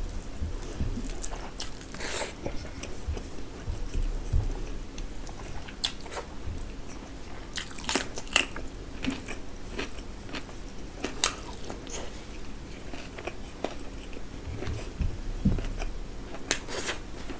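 Close-miked chewing and mouth sounds of a person eating rice and curry by hand, with sharp clicks and smacks scattered throughout.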